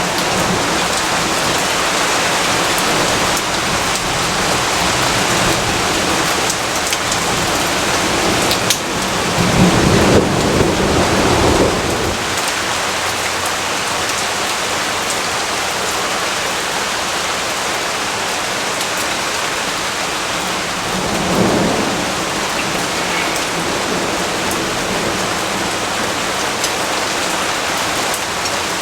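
Steady heavy rain with thunder rumbling twice, a long low roll about nine seconds in that is the loudest part, and a weaker one about two-thirds of the way through.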